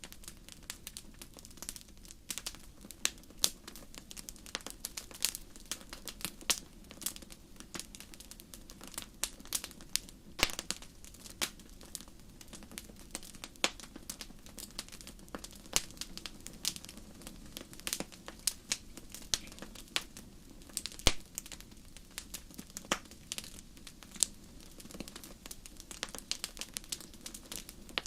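Wood campfire crackling: irregular sharp pops and snaps, several a second, over a soft steady low rumble of the flames.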